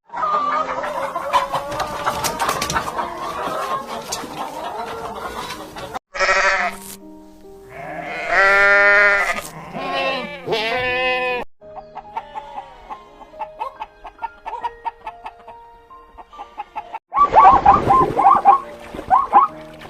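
Farm animals calling over background music, the sound cutting abruptly to a new animal clip every five or six seconds; a wavering, bleat-like call is loudest in the middle.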